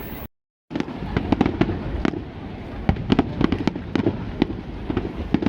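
Aerial fireworks going off in quick succession: many sharp crackling pops, several a second, over a low rumble of bursts. The sound cuts out completely for about half a second near the start.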